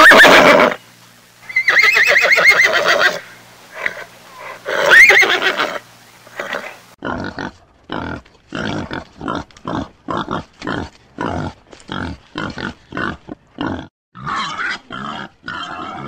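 A horse whinnies three times, loud, wavering calls. After a break, a pig grunts over and over in short grunts, about three a second.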